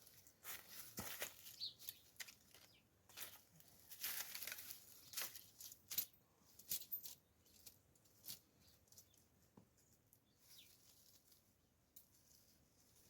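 Faint, irregular rustling with light clicks, busiest in the first nine seconds and thinning out after.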